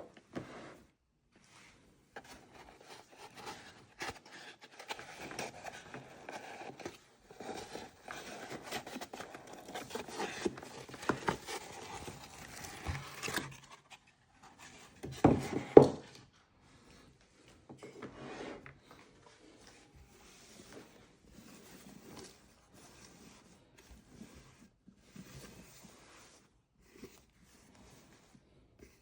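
Irregular handling noises: rubbing, scraping and rustling with small knocks, then one louder clatter about halfway through, and sparser, fainter rustles after it.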